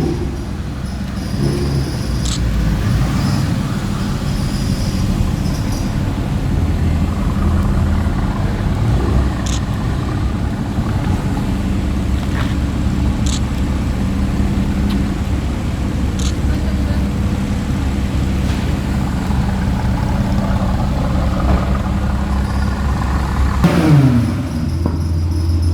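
Supercar engines running with traffic noise, with a low steady rumble throughout. Near the end a car goes past loudly, its engine note falling in pitch.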